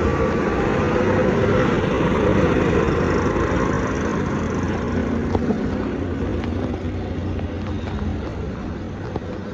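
Steady motor vehicle engine and road noise that slowly fades over the last few seconds, with a few faint clicks.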